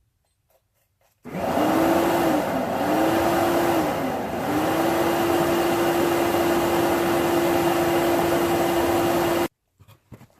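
Electric air blower for a charcoal forge, running with a loud rush of air and a steady motor whine. It starts suddenly about a second in, its pitch sags twice shortly after starting, then holds steady until it cuts off abruptly near the end.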